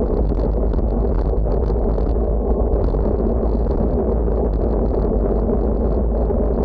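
Wind buffeting the microphone: a steady, loud low rumble with a hiss over it, on a windy day.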